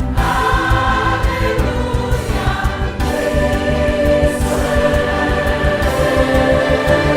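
Choir singing Christian gospel-style music with accompaniment, sustained chords with vibrato, a new phrase starting right after a brief break at the beginning.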